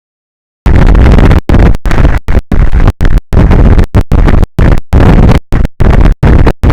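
Wind blasting an outdoor camera microphone, a loud distorted rushing noise that starts suddenly about half a second in and keeps cutting out abruptly to silence for moments, several times a second.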